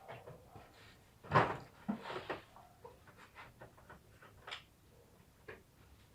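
Scattered clicks and knocks of hand tools and parts being handled during engine-bay work. The loudest knock comes about one and a half seconds in, followed by a run of small, irregular ticks.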